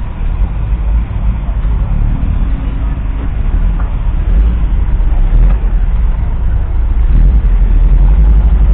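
1976 Kenworth W900's 14.0 litre six-cylinder diesel engine running with a deep, steady rumble, growing louder about four seconds in and again near the end.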